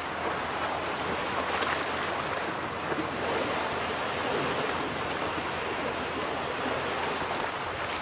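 Ocean surf: waves washing onto a beach in a steady rushing hiss, one swelling a little louder about a second and a half in.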